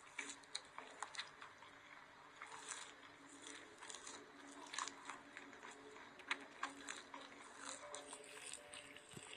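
Soap being bitten and chewed close to the microphone: irregular crisp crunches and clicks, a few sharper snaps standing out.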